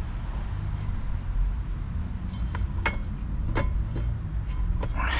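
Light metallic clinks and knocks of car parts being handled while a replacement oil cooler is fitted, about five in the second half, over a steady low rumble.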